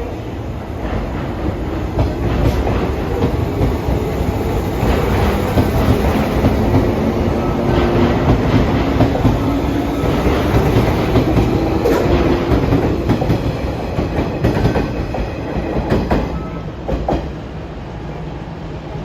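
JR 185 series electric train moving past, with traction motor hum and wheels clicking over rail joints. It swells to its loudest midway and eases off near the end.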